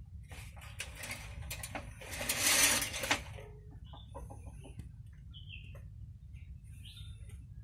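Birds calling in the background: a loud rasping burst about two seconds in, then a few short high chirps over a steady low hum.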